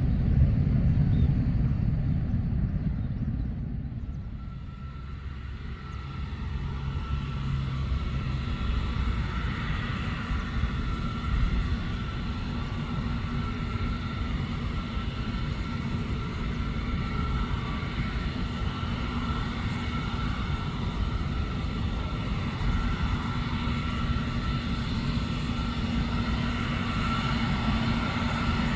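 Boeing 777-300 jet engines running: a low rumble that eases about four seconds in, then a steady rumble with a high, steady whine over it.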